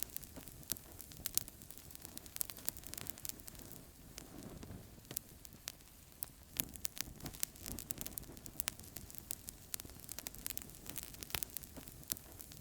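Wood fire crackling in a fireplace: frequent irregular sharp pops and snaps over a soft steady hiss, with a low rumble of the flames swelling about four seconds in.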